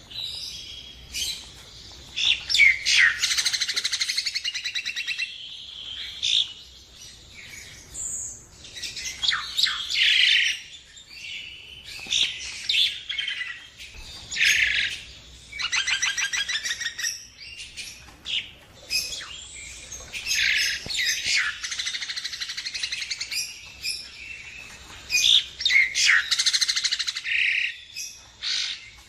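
Jalak Nias starling in full song: bursts of loud whistled notes and rapid buzzy trills, phrase after phrase with short pauses between them.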